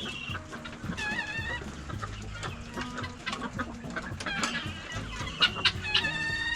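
Chickens clucking and calling, with several short wavering calls and a sharper run of calls near the end.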